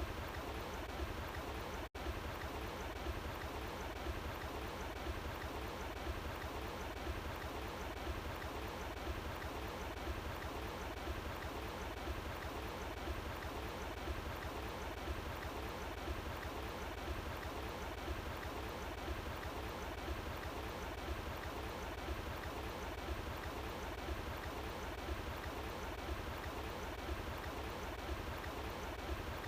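Running water flowing steadily outdoors, an even rushing sound that cuts out for an instant about two seconds in.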